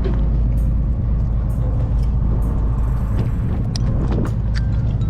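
Chartered fishing boat's engine running with a steady low drone, with a few sharp clicks and taps on board.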